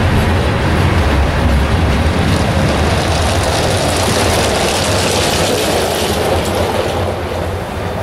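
Herzog ballast train's hopper cars rolling past with a steady low rumble that thins out in the second half. About halfway through, a pickup truck drives by close.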